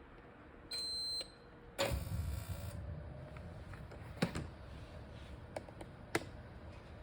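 Gas heater giving one beep of about half a second as it is switched on. About a second later comes a loud burst of rushing noise, then a low steady rumble with a few sharp clicks.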